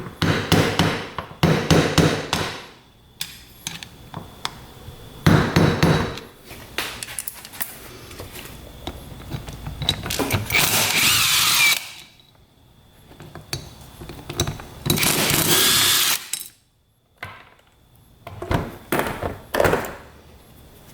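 Several short runs of a power tool on metal, with pauses between them, as the bolts holding the camshaft bracket on a Yamaha 225DX cylinder head are undone.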